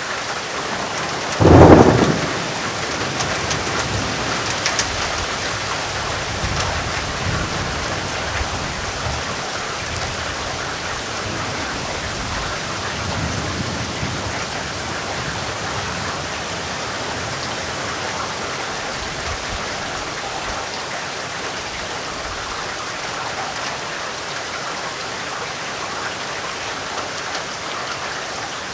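Steady rain with a sudden sharp thunderclap about a second and a half in, the loudest sound. Low rolling thunder follows, rumbling on for several seconds and swelling again briefly around halfway.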